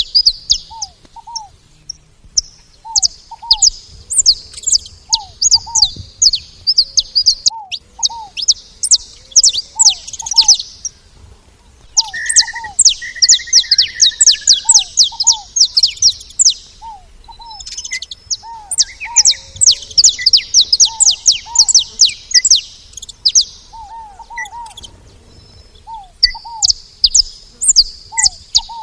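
Saffron finch calling: runs of rapid, high, downward-sweeping chips in bursts of several seconds, with short lower two-note calls repeating every second or two between them.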